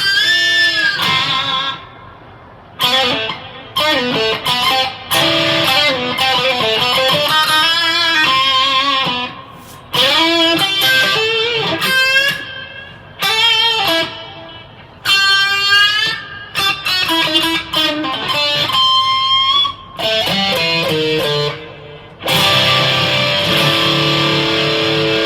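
Electric guitar played through the Donner Dark Horizon distortion pedal. Short lead phrases with string bends and vibrato are broken by brief pauses, and a chord rings on from about three seconds before the end.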